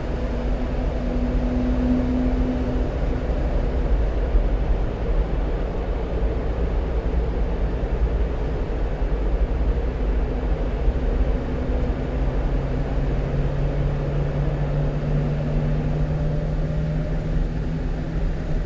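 Steady road and engine noise heard inside the cab of a one-ton truck driving at speed. A low engine hum comes up about two-thirds of the way through and rises slightly in pitch.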